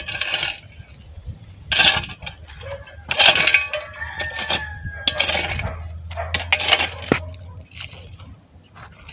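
A shovel scraping into soil and tossing dirt into a small grave: a series of short, gritty scrapes about every one to two seconds.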